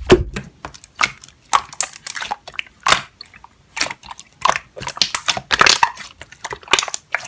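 Slime being pressed and squeezed by hand, giving irregular sharp crackles and pops.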